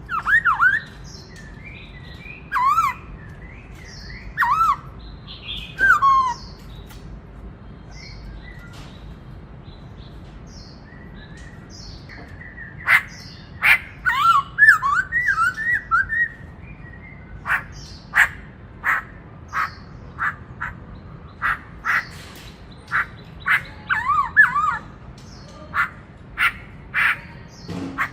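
Black-throated laughingthrush singing: loud, slurred whistled phrases for the first few seconds, a lull, a quick cluster of whistles around the middle, then a run of short sharp notes at about one to two a second with brief whistled flourishes near the end.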